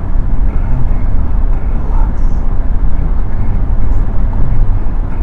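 BMW 316i E30 Touring heard from inside the cabin on the move: its four-cylinder engine and the road noise make a steady low rumble.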